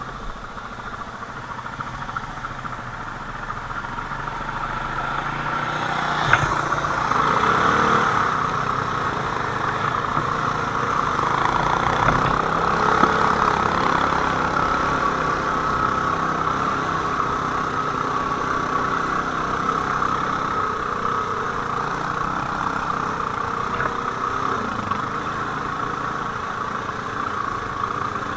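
ATV engine running, growing louder over the first several seconds, with a single knock about six seconds in.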